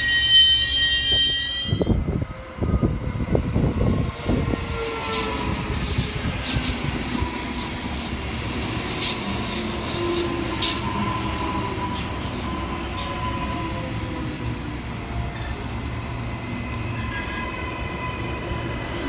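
Train running on rails. High wheel squeal at the start, then a quick run of low knocks from the wheels a couple of seconds in, then steady rolling noise with a faint steady whine. The squeal returns at the very end.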